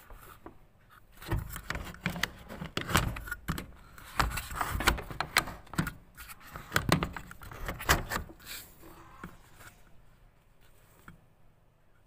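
A run of clicks, knocks and scrapes of hard parts being handled, with a few dull thuds, starting about a second in and dying down after about eight seconds.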